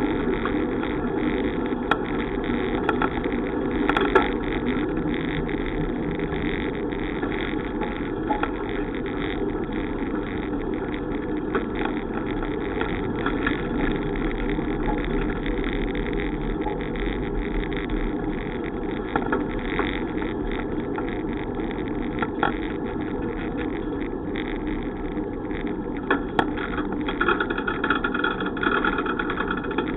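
Steady rumble of wind and tyre noise from a bicycle ride, with a few brief knocks from the bike going over bumps.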